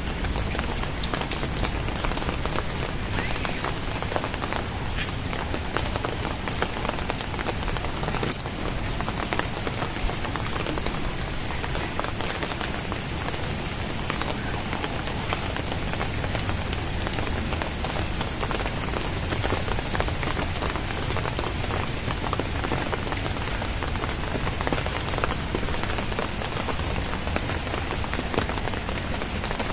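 Very heavy rain falling steadily, with a dense patter of separate drops and drips striking nearby surfaces. A faint steady high tone runs under it from about a third of the way in.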